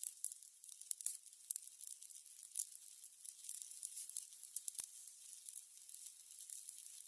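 Burning candles crackling softly: a stream of small, irregular pops and ticks over a faint hiss, with one sharper pop about two thirds of the way through.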